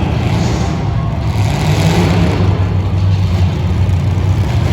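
Demolition derby car engines running loud and rough, revving up and down.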